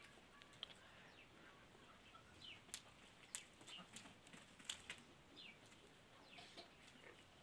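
Faint, short bird chirps repeating every second or so, with scattered small clicks and ticks.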